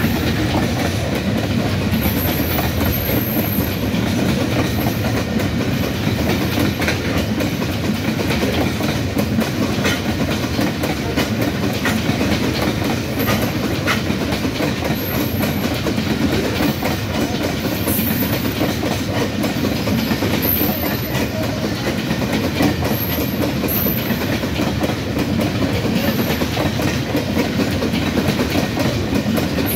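Freight train of covered wagons passing at speed: a steady rumble with the knocks of wheels over rail joints, and brief high-pitched squeals now and then.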